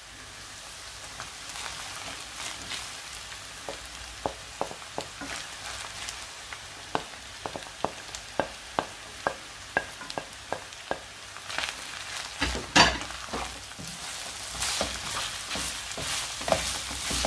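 Meat sizzling as it fries in vegetable oil in a pot, with a run of sharp clicks at about two a second and then one louder knock as Irish potato is added to the pot and stirred in.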